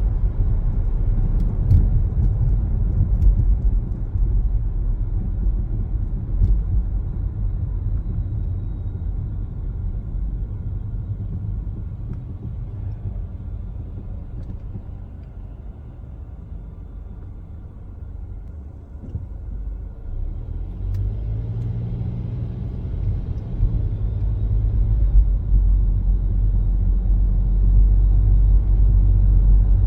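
Car driving, a low road and engine rumble. It dies down until about 18 seconds in, as if the car slows, then a low engine hum comes in at about 21 seconds and the rumble builds again as the car speeds up.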